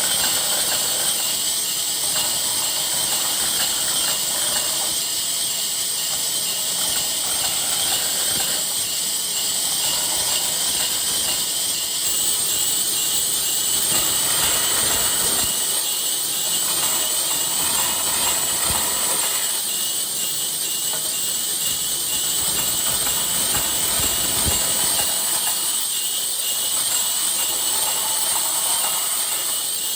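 Steady loud hiss, mostly high-pitched, with fainter workshop sounds shifting beneath it.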